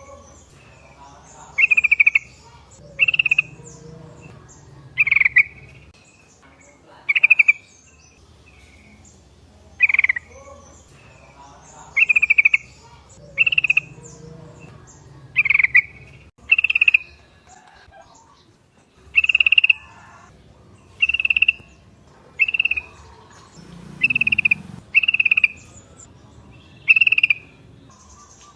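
Sooty-headed bulbuls (trucuk) calling: short, loud notes repeated every one to three seconds, some fifteen in all, with faint chirps between them.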